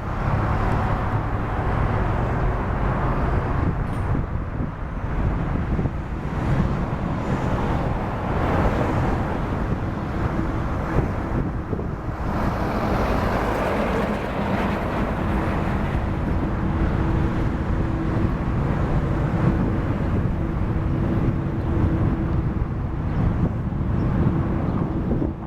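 Steady outdoor airport noise: a constant roar of aircraft and ground machinery, joined about two-thirds of the way through by a steady low hum.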